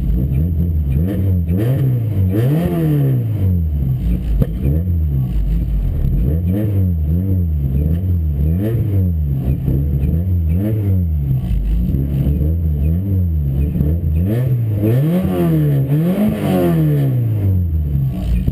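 Car engine just cold-started after sitting over a week, running and being revved up and down over and over, each rev rising and falling in pitch about every one to two seconds.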